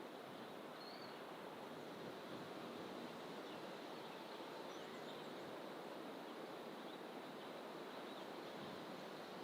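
Faint, steady outdoor ambience: an even background rush from the bush, with a few faint, brief bird chirps above it.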